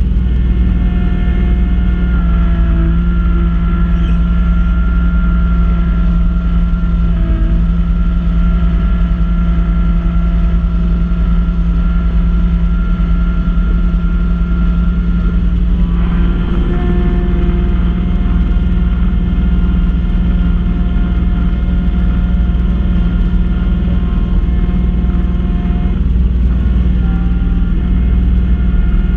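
Kubota B2650 compact tractor's diesel engine running steadily under load, driving a front-mount snowblower, with a whine from the drive that shifts pitch about two seconds in and again about halfway through.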